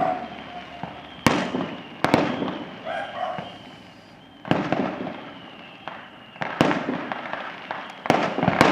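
Fireworks exploding over a city: separate sharp bangs every second or two, then a quick cluster near the end, each followed by a rolling echo that dies away.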